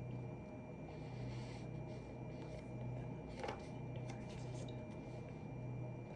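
Faint scratching and rustling of desk work, with one sharper click about three and a half seconds in, over a low hum.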